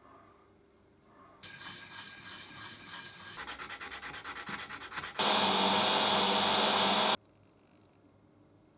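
Abrasive work on rusty steel. A stretch of rubbing gives way to rapid strokes, about ten a second. Then comes a louder, steady machine-like run with a low hum that cuts off suddenly about seven seconds in.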